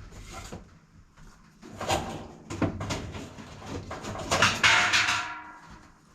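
Furniture being shifted by hand: a few knocks and bumps, then a loud scraping slide lasting about a second near the end.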